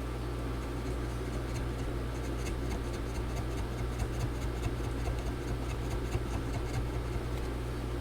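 A plastic pry card scraping and clicking under a MacBook Pro battery as it works through the alcohol-softened adhesive, in small irregular scratches for most of the stretch. A steady low hum runs underneath.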